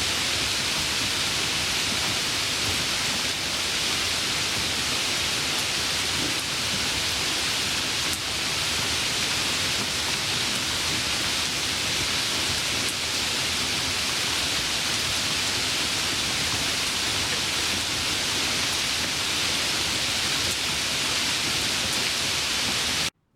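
Steady, even hiss of heavy rain, used as a white-noise track, that cuts off abruptly near the end.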